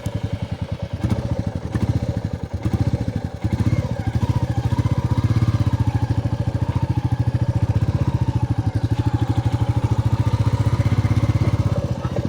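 Royal Enfield Bullet's single-cylinder engine idling with a steady, rapid, even thumping beat.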